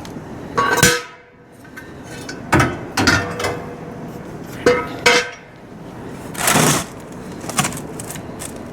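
Hand tools and metal parts clanking and knocking together, a series of irregular sharp metallic hits, some with a brief ring, and a short rasping scrape about six and a half seconds in.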